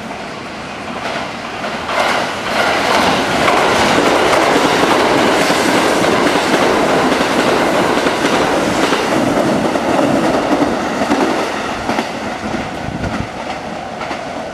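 A Kintetsu 9020-series electric commuter train running through the station past the platform, its wheels clattering over rail joints and points. The sound swells about two seconds in, stays loud for several seconds as the cars go by, then fades as the train pulls away.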